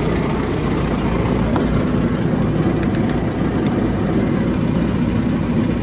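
John Deere 6430 tractor's diesel engine running steadily, a dense low drone with no speech over it.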